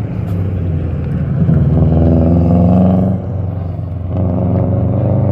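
A Subaru hatchback's engine running hard as it drives an autocross cone course. It lifts off briefly about three seconds in, then pulls strongly again.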